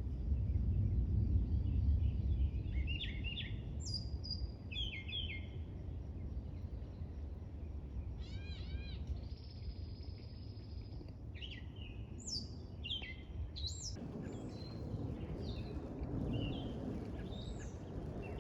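Wild birds calling in scattered bursts of short high chirps, with a quick run of arched notes and a brief steady whistle about halfway through, over a continuous low outdoor rumble.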